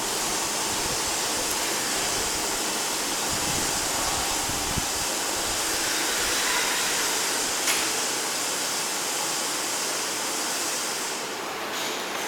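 Small watch-glass washing machine running, with the steady rushing hiss of its water spray. A single sharp click comes about two-thirds of the way through, and the high hiss eases off near the end.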